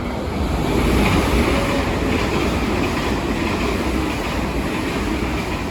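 A train running along the platform as it comes into the station: a loud, steady rush of wheel and running noise that swells about a second in.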